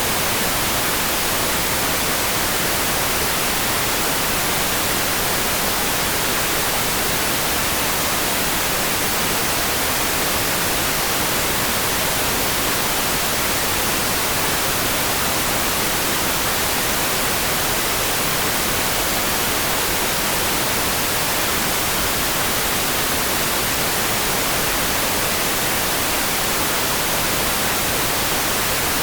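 Steady rain noise: an even, unbroken hiss, bright and high-pitched, with no separate drops or changes.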